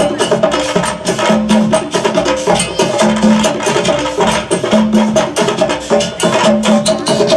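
Live percussion music: drums and a wood block playing a quick, steady rhythm.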